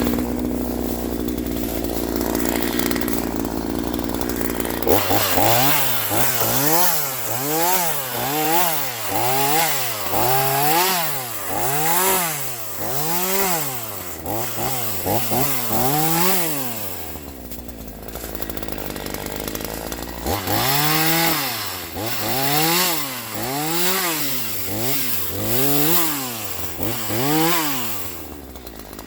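Troy-Bilt TB4218 42cc two-stroke chainsaw running steadily, then revved up and down again and again, about one rev a second. Past the middle it settles back for a few seconds before the revving starts again.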